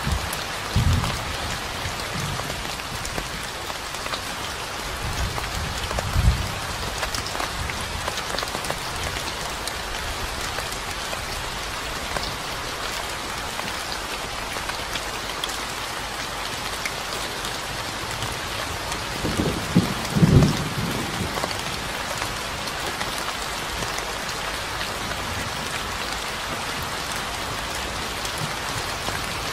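Steady rain falling, an even hiss of drops, with a few short low thumps about a second in, around six seconds in and around twenty seconds in.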